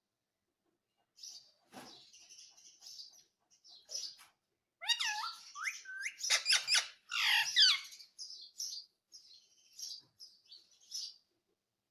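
Indian ringneck parrot chirping in short high notes, with a louder run of rising calls from about five to eight seconds in.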